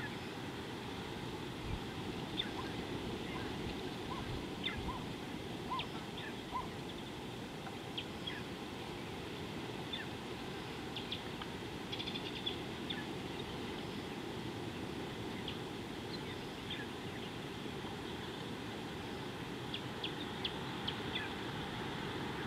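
Wild birds chirping and calling in short, scattered notes, with a run of lower whistled notes in the first few seconds, over a steady low rush of outdoor background noise.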